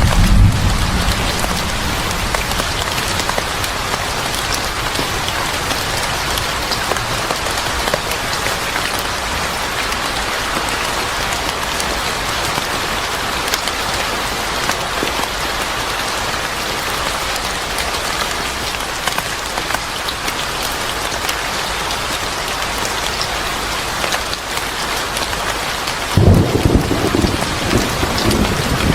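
Steady heavy rain falling, with thunder rumbling low as it begins and again a few seconds before the end.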